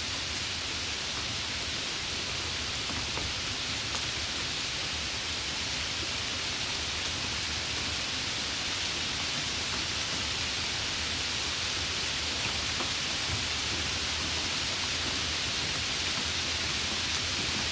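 Heavy rain pouring steadily, with a few sharper drop ticks, one about four seconds in and another near the end.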